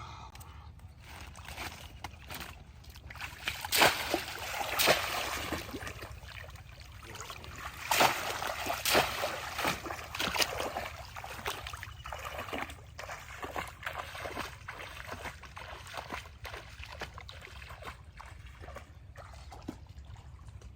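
Shallow water being splashed and sloshed by people wading and grabbing at fish by hand, with a run of small splashes and a few louder sharp splashes about four to five seconds in and again around eight to ten seconds in.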